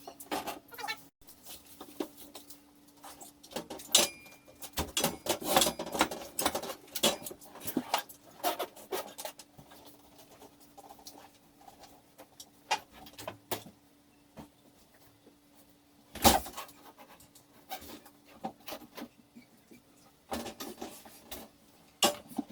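Scattered clicks, knocks and scraping of hands working a washing machine's water inlet hose and its threaded fitting as the hose is unscrewed, busiest about a quarter of the way in, with one sharp knock a little past the middle. A faint steady hum runs underneath.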